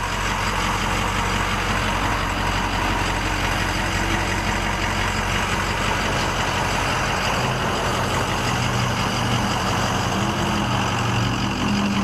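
Ford 6.0L Power Stroke V8 turbo diesel idling steadily.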